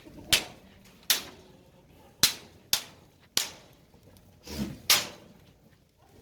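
A series of sharp cracks or slaps, six or seven at uneven intervals about half a second to a second apart.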